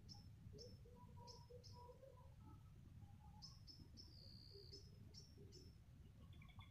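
Faint birdsong in forest: a bird giving short high chirps in irregular runs, with one longer held note about four seconds in, and softer, lower whistled calls in the first two seconds, over a faint low rumble.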